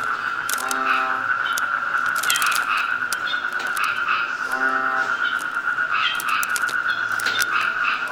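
Jungle ambience: a steady high insect drone, with an animal's low buzzy call repeating about every four seconds. Crackly, irregular footsteps crunch through leaf litter.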